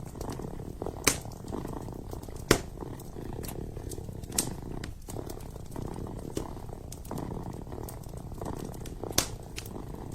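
Kitten purring steadily in a low, even rumble, with occasional sharp pops from a burning wood fire, four of them, the loudest about a second in and at two and a half seconds.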